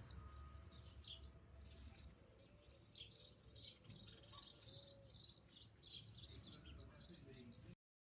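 Common swifts screaming: a rapid, dense run of shrill, buzzy calls that overlap one another, cutting off suddenly near the end.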